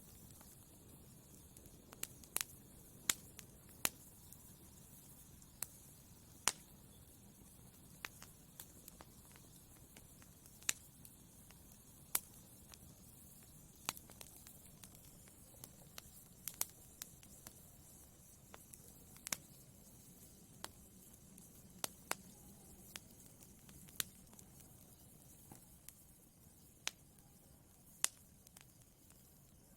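Wood fire burning in a fireplace: a faint steady hiss with irregular sharp crackles and pops, one or two a second.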